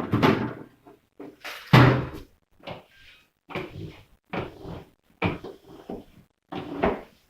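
Plastic fridge crisper drawer and divider being handled and pulled out, a string of short knocks and clatters, the loudest about two seconds in.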